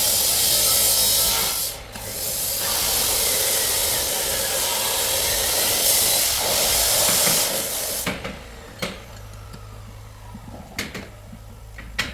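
Steady abrasive rasping and hissing of a workshop tool working a part, with a short break about two seconds in; it stops about eight seconds in, leaving a few light clicks and knocks.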